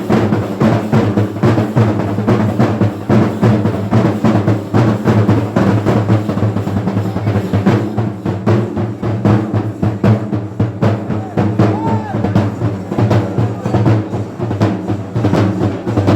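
Chenda drums beaten in fast, continuous strokes, the temple-festival drumming that accompanies a thira ritual performance.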